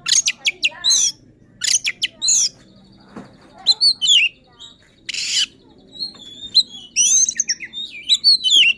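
Oriental magpie-robin singing in short, loud bursts of sharp whistles and quick up-and-down notes, with one harsh rasping note about five seconds in. This is the agitated, combative song of a kacer in full voice, running through its mimicked repertoire.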